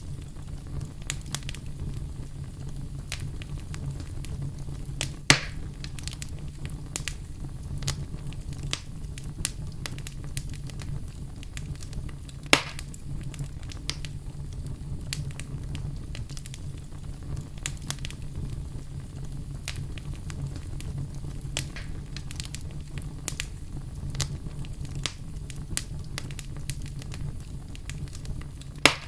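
Wood fire crackling, with many small pops and three louder snaps at about 5 s, 12 s and near the end, over a steady low rumble.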